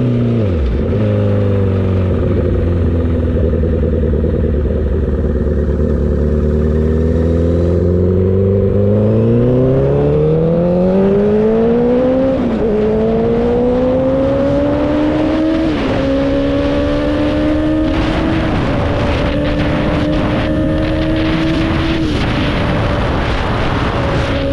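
Motorcycle engine running at steady low revs, then accelerating with a rising pitch, changing up through the gears three times in the second half.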